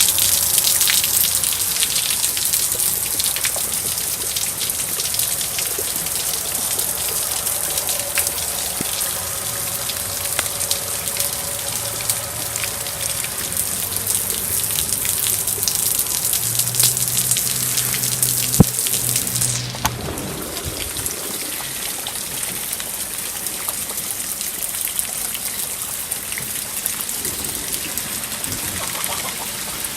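Steady rain falling, a dense hiss of drops. A single sharp knock comes about two-thirds of the way through, and right after it the rain sounds duller, with less of its high hiss.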